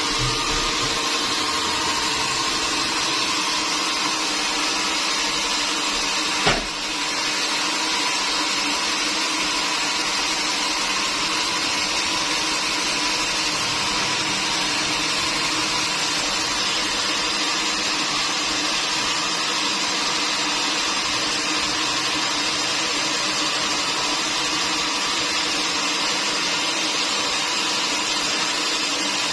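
Sawmill machinery running steadily with a constant mechanical whine, and one sharp knock about six and a half seconds in.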